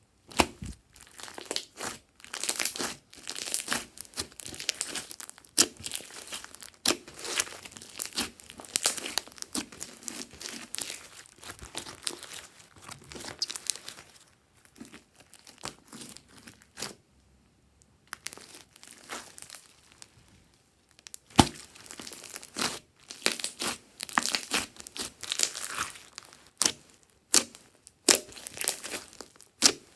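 Glossy slime being squished and stretched by hand, giving dense, irregular sticky crackles and pops, with a brief lull a little past halfway.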